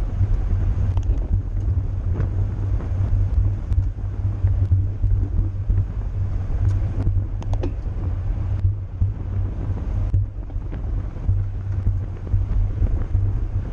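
Wind buffeting a camera microphone during a bicycle race: a steady low rumble with a rushing haze above it and a few faint ticks.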